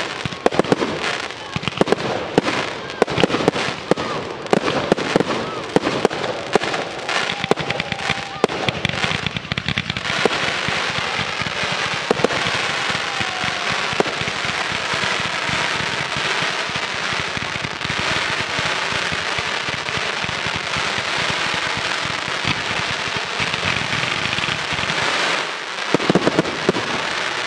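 Fireworks display: a rapid run of sharp cracks and pops that gives way, about ten seconds in, to a dense, continuous crackling hiss, with a fresh run of bangs near the end.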